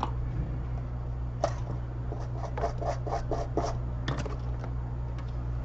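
Hand tools scraping a phone's circuit board in a quick run of about eight short strokes, over a steady low hum.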